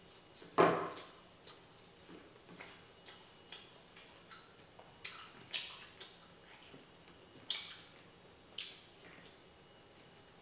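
Close-up mouth sounds of a man eating fried egg and rice with his fingers: wet smacks and clicks of lips and tongue as he chews, at uneven intervals. The loudest smack comes about half a second in, with a cluster of smaller ones between about five and nine seconds in.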